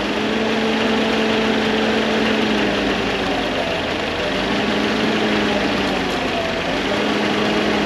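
An engine running steadily, its tone wavering slightly partway through.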